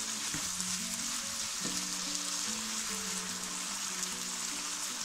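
Chopped onions and tomatoes sizzling as they sauté in a frying pan, a steady hiss, with soft background music of held notes.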